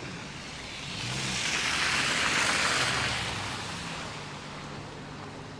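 A vehicle passing by on a snowy street: tyre hiss swells for about two seconds and then fades away, over a faint low hum.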